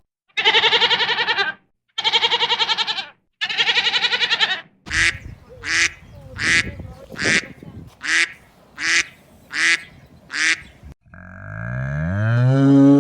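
Farm animal calls in turn: three quavering sheep bleats, then eight short duck quacks about one every 0.8 seconds, then a long cow moo that rises in pitch near the end.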